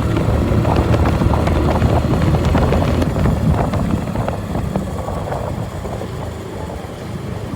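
Hero Passion Pro motorcycle's small single-cylinder four-stroke engine running steadily under way, with some wind buffeting the microphone. It grows somewhat quieter over the last few seconds.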